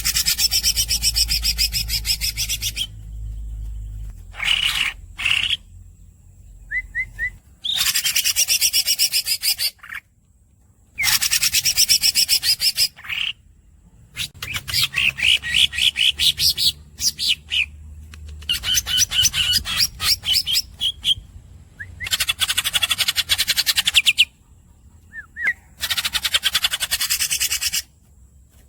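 Green leafbird (cucak ijo) singing in long, rapid rolling trills, about seven bursts of two to three seconds each separated by short pauses, with brief squeaky chirps between them.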